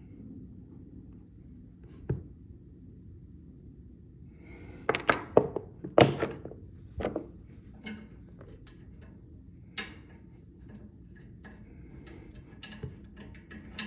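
A series of thunks and knocks from hard objects being handled: a single knock about two seconds in, a loud cluster of several between about five and seven seconds, another near ten seconds, then lighter clicks.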